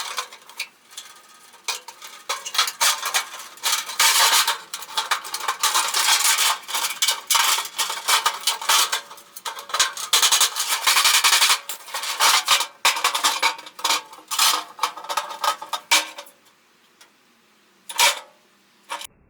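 Metal objects being handled, with a dense run of clinking, clattering and scraping that stops about 16 seconds in. One more knock comes near the end.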